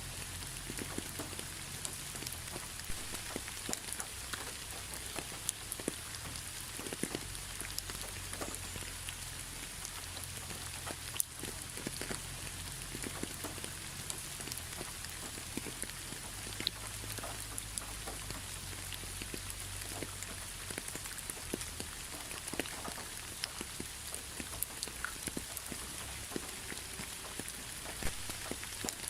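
Steady rain falling, an even hiss with many individual drops ticking sharply, over a low rumble.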